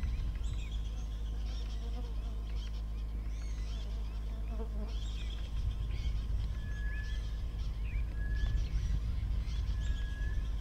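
Several birds chirping and trilling, with a short flat whistled note repeated three times about a second and a half apart in the second half, over a steady low rumble.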